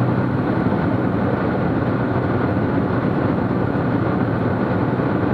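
Steady drone of a Cessna T210 Centurion's turbocharged six-cylinder engine and propeller in cruise flight, even and unchanging.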